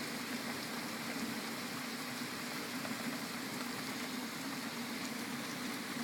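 Heavy rain pouring down, a steady even hiss, with a steady low hum underneath.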